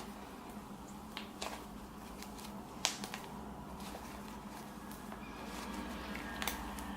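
Faint handling noises: scattered small clicks and taps, one sharper click about three seconds in, over a low steady hum.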